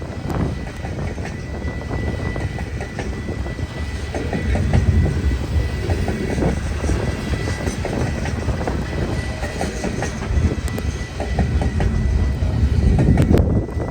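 Freight cars of a passing train rolling by, with a steady low rumble and repeated wheel clicks over the rail joints.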